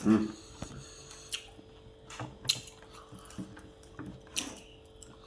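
A person eating close to the microphone: wet chewing with scattered lip smacks and clicks, and a louder sound right at the start.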